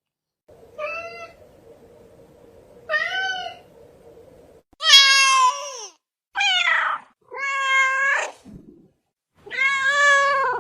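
Domestic cat meowing repeatedly: six separate meows, two fainter ones over a faint steady hum, then four louder, longer meows in the second half.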